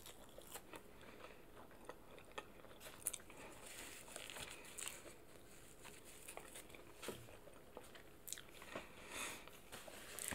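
A person biting and chewing crispy fried chicken, close to the microphone: quiet, scattered soft crunches and small mouth clicks, a few a little louder than the rest.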